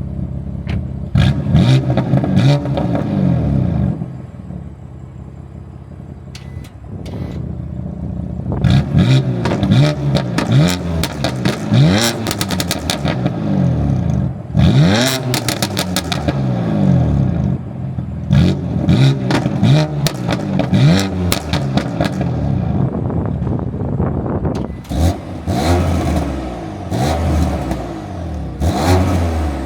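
BMW M3/M4's S55 twin-turbo inline-six breathing through a single midpipe exhaust, revved again and again in short rising and falling sweeps, with sharp crackles between revs. It settles to a quieter idle for a few seconds about four seconds in.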